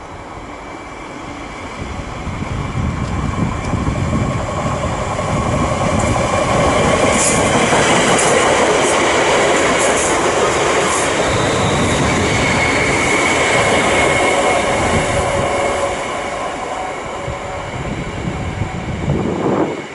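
A passenger train running through the station, building up over the first few seconds, loudest in the middle and then easing off. Brief high-pitched wheel squeals come in the loudest part, over the rumble and clatter of the wheels on the rails.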